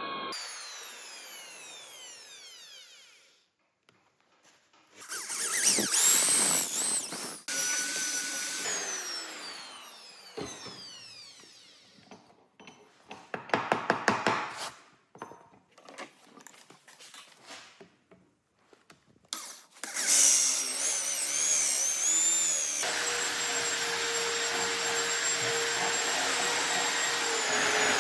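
Power tools working on a knife handle in several short runs, each motor slowing with a falling pitch after it stops, and a burst of rapid ticks partway through. The last few seconds are a steady run at a constant pitch.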